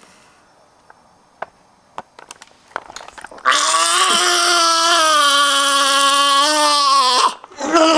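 A few faint knocks and clicks, then a person lets out a loud, long wailing cry on a nearly steady pitch for almost four seconds, which cuts off sharply; a second cry starts just before the end.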